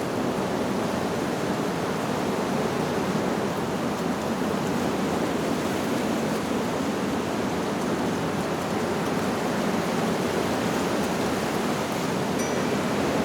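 Wind blowing steadily through leaves: an even, unbroken rushing. A faint high chime note sounds near the end.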